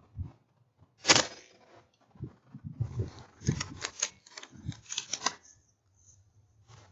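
A single sharp crack about a second in, the loudest sound, then a quick run of clicks and rattles lasting a few seconds.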